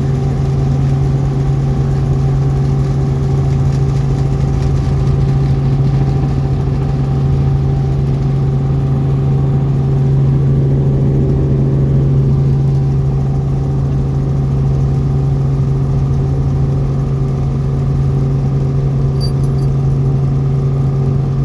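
Helicopter engine and rotors running with a steady, loud drone.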